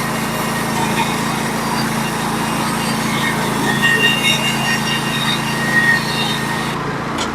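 Norwood HD36v2 portable sawmill's gas engine running steadily under load while its band blade saws through a log. The high hiss of the cut drops away near the end, and the engine keeps running.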